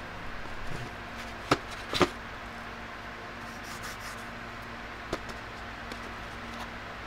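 A few sharp clicks and knocks, the loudest pair about one and a half and two seconds in and another about five seconds in, as the pieces and case of a drafting compass set are handled.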